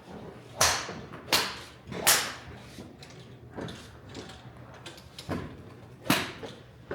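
Golf clubs striking balls: sharp cracks, three about three quarters of a second apart in the first couple of seconds and one more near the end.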